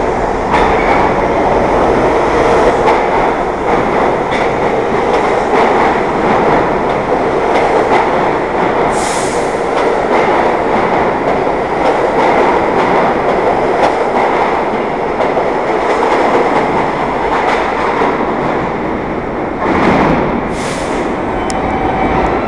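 New York City subway train running through an underground station: a steady loud rumble of wheels on rail with clicking, and short high hisses once about nine seconds in and twice near the end.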